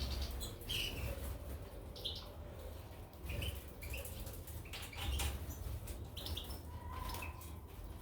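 Caged goldfinches and canaries giving short, scattered chirps, with brief wing flutters and light clicks from hopping about, over a steady low hum.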